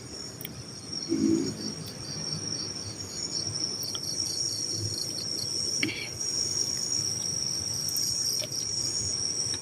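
Night chorus of crickets and other insects: a steady, high-pitched trilling, with a brief low murmur about a second in.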